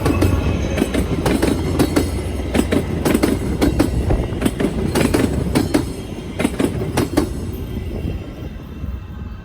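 Train wheels banging over a diamond crossing: a rapid, irregular clatter of sharp impacts over a low rumble. The impacts stop about seven seconds in and the rumble fades.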